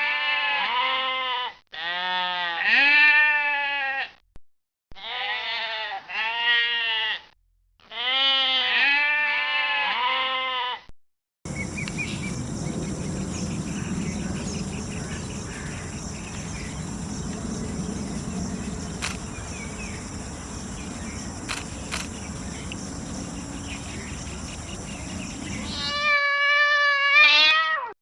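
Four runs of loud bleating over the first eleven seconds or so, each a string of quavering calls. Then about fourteen seconds of steady noise with a high hiss and a few clicks, and near the end a cat starts meowing.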